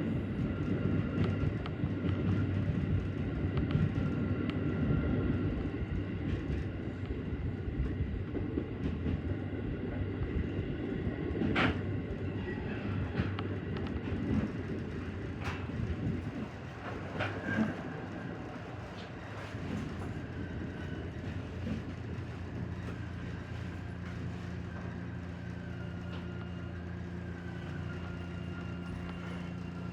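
JR Central 313 series electric train running on the rails, wheel-on-rail noise with a few sharp clicks over rail joints or points. After about sixteen seconds the running noise eases as the train slows, leaving a steady low hum.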